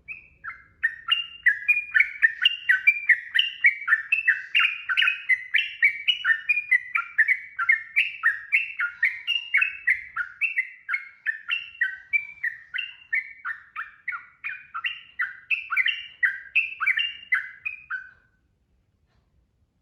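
Sooty-headed bulbul (trucukan) singing a long, unbroken run of quick warbled notes, about three to four a second, that stops abruptly near the end.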